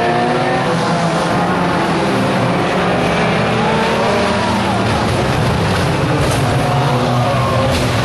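Several 1600cc banger racing cars' engines revving together as the pack laps the track, their overlapping pitches rising and falling continuously.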